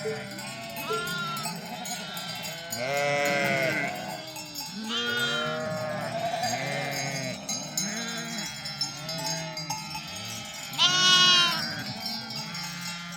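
A flock of sheep bleating, many overlapping calls one after another, the loudest about eleven seconds in.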